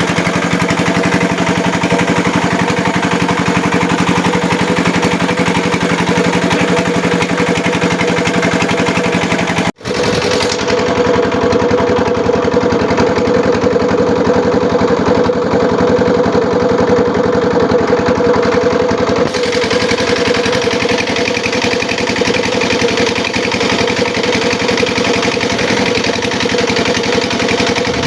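Engine of a homemade gambir-leaf grinding and pressing machine running steadily. The sound cuts out for an instant about ten seconds in.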